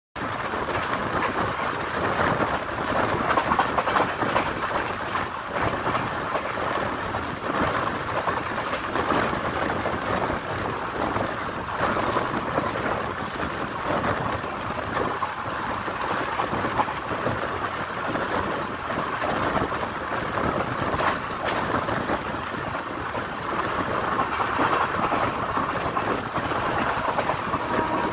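Passenger train coach running at speed: steady rumble of wheels on rails, with frequent irregular clicks and clatter from the wheels over the track.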